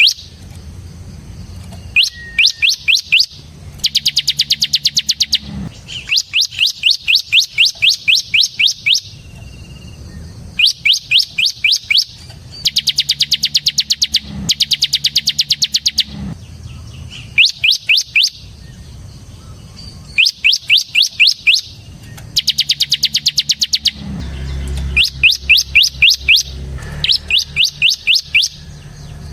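Bar-winged prinia (ciblek) singing in repeated bursts of rapid, high, evenly spaced chirping notes, each burst one to two seconds long with short pauses between. This is the fast, drill-like trilling song keepers call ngebren.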